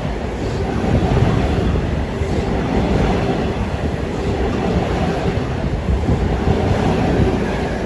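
Long Island Rail Road train passing close by: a loud, steady rumble of wheels on track with a steady hum running through it.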